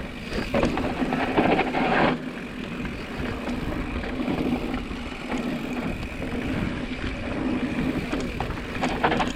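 Mountain bike descending a rough dirt trail at speed: wind rushing over the action-camera microphone, with tyre noise and the bike rattling over bumps, most in the first two seconds, and a steady low buzz underneath.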